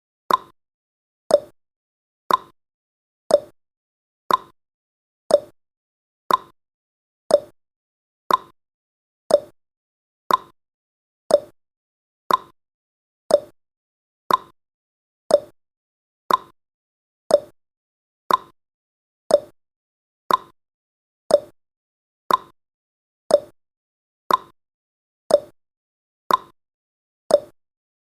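A countdown timer's sound effect: a short, sharp tick or plop once a second, each decaying quickly to silence between.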